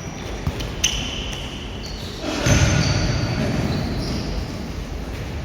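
Futsal play on an indoor court: several short high squeaks of shoes on the court floor and sharp knocks of the ball being kicked and bouncing, with a louder burst of noise about halfway through.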